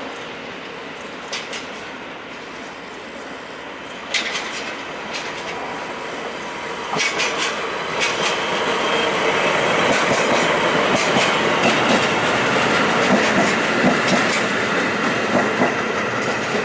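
Freight train of a DE10 diesel locomotive and Kiya 97 rail-carrier railcars running past, wheels clicking over the rail joints, growing louder about four seconds in and again near the middle.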